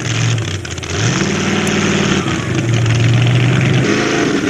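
Two-wheel-drive pickup truck engine running hard under load in a truck pull. Its pitch steps up about a second in, drops back, and climbs again near the end.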